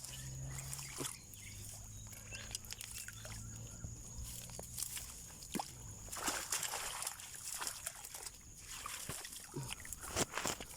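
Shallow water sloshing and splashing in short irregular bursts, with scattered clicks and knocks, as set fishing hooks are handled in the water.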